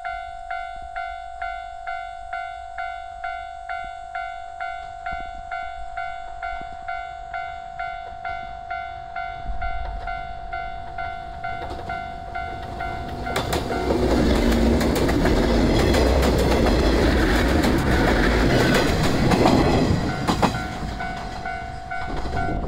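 Level-crossing warning bell dinging steadily, about twice a second. About 13 seconds in, a yellow JR West 105 series electric train passes close by with loud wheel and rail clatter, drowning out the bell for several seconds. The bell is heard again near the end.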